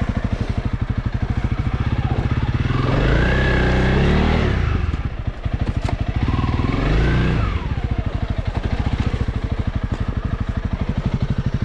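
Honda CRF300L's single-cylinder four-stroke engine running at low revs with a fast even thump, revved up and back down twice, about three and about seven seconds in.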